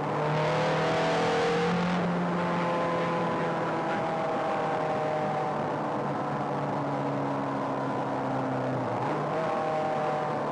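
Ferrari sports-car engine heard from inside the cabin, pulling in fourth gear: the revs rise over the first second and a half, then ease off gradually and hold fairly steady.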